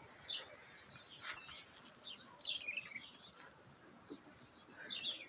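Birds chirping: short, scattered high chirps repeating on and off, fairly faint.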